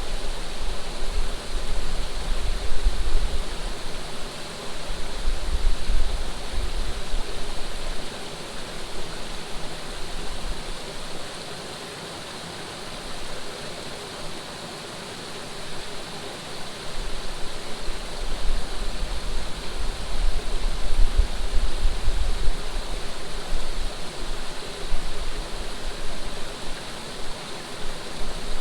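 Steady rush of running water, like a stream or small waterfall. Gusts of wind buffet the microphone with a low rumble for the first several seconds and again through the second half, easing off in between.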